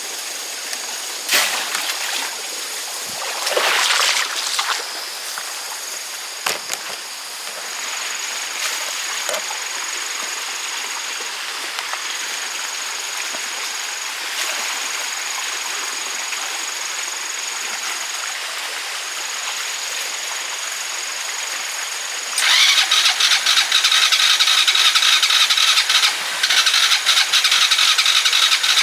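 Electric vehicle's motor whining steadily over rushing stream water as it strains, stuck in the stream bed. About 22 seconds in, a much louder rapid rattling buzz sets in, breaking off briefly once.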